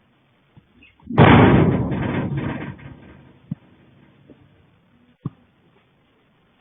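A sudden loud bang about a second in, with a rattle that dies away over about a second and a half, followed later by two faint single knocks.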